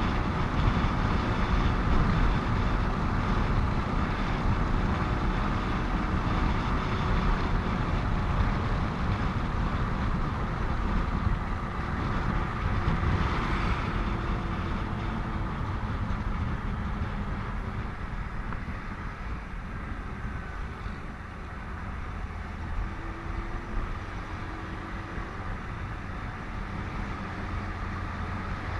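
Steady road and wind noise from a motorcycle riding in highway traffic, with engine hum and passing vehicles, easing slightly in the second half.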